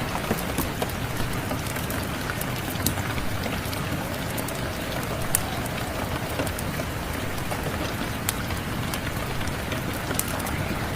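Steady rain falling, mixed with the crackle of a wood fire: sharp, irregular pops and snaps over the even hiss of the rain.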